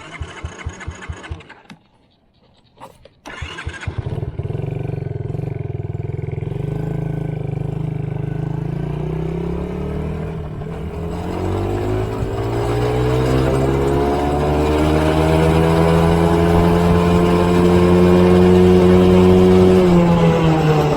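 Chinese Honda-clone pitbike four-stroke single-cylinder engine cranked over, catching a few seconds in and running, then revved steadily higher, its pitch climbing for several seconds to a peak near the end before dropping back. It is being run up toward and past 10,000 rpm while stock.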